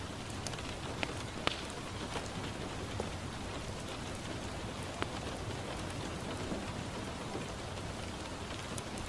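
Steady rain falling on a window pane, an even hiss with a few sharp clicks scattered through it, the loudest about a second and a half in.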